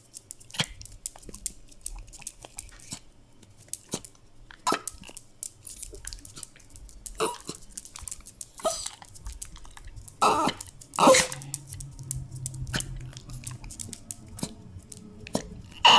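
A dog making short whining sounds, spaced irregularly, with the loudest two about ten seconds in.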